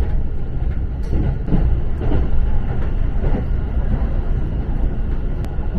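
Local passenger train running along the line, heard from inside the carriage: a steady low rumble with a few faint ticks.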